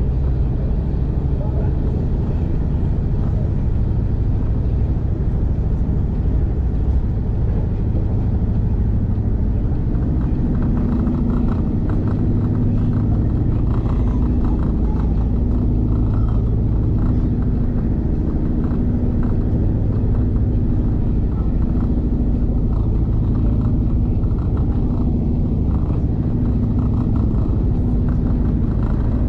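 Steady low rumble of a V/Line diesel passenger train running along the track, heard from inside the carriage. A steady engine drone grows stronger about ten seconds in.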